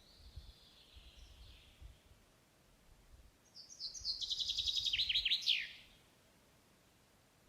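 Forest songbird singing: a faint thin whistle, then, about three and a half seconds in, a loud rapid run of high notes that falls in pitch and ends in a quick downward flourish.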